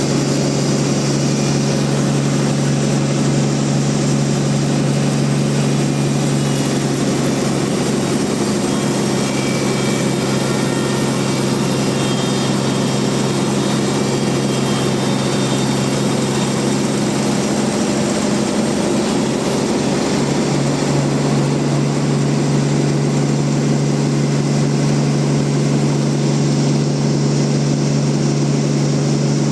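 Band sawmill running steadily through a trembesi log, a continuous machine hum with noise over it. Its lowest tone fades for a stretch in the middle and then comes back.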